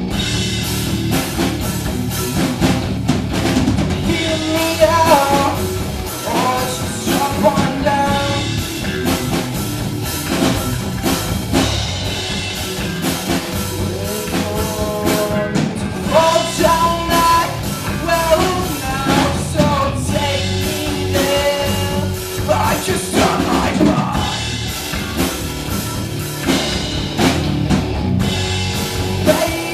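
Live rock band playing a song: drum kit, electric guitar and bass, with a singer's voice over the top.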